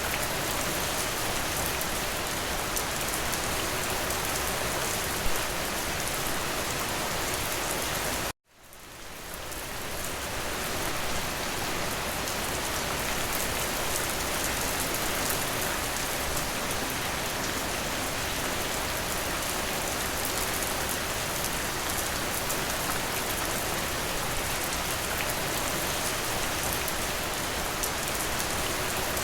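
Steady rain falling on a window. It cuts out abruptly about eight seconds in and fades back up over the next couple of seconds, like the seam of a looped recording.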